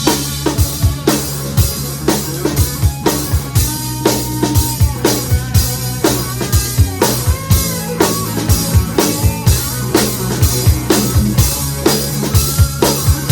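Rock cover band playing live, with the drum kit loud in the mix: kick and snare drive a steady beat over a held bass line and other instruments.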